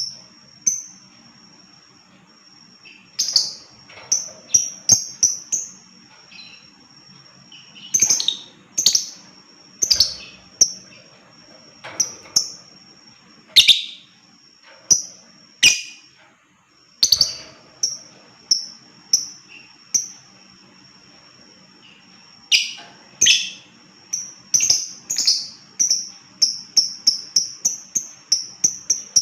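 Lovebird calling: sharp, high-pitched chirps and shrill screeches in irregular bursts, quickening into a rapid run of chirps near the end.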